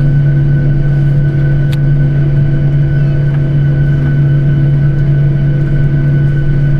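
Steady drone of an airliner heard from inside: a strong even low hum with a thin steady whine above it, unchanging throughout.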